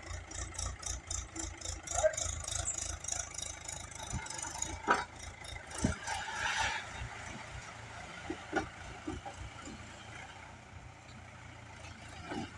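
Mahindra Bhoomiputra 415 tractor's diesel engine running at low speed. It has a regular low throb that is strongest in the first few seconds, and a few sharp knocks and clunks come in around the middle.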